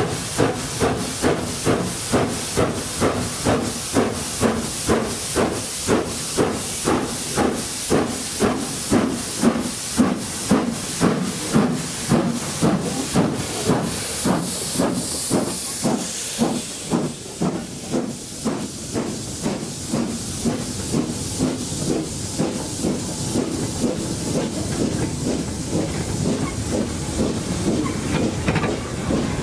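A small industrial tank steam locomotive working, its exhaust beating in regular chuffs about two a second. A burst of hissing steam comes about halfway through, after which the beats grow fainter and less distinct.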